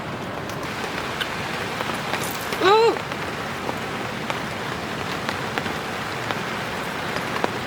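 Heavy rain falling steadily, with scattered individual drops hitting close by. About three seconds in, a brief voice with a short rise and fall in pitch sounds over it.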